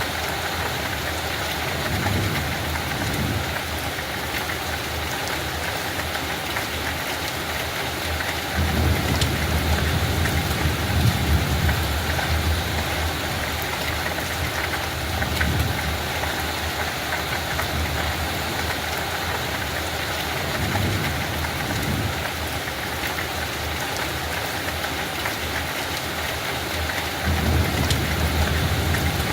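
Steady light rain falling on a field, an even hiss with scattered drop patter. A low rumble swells and fades several times beneath it.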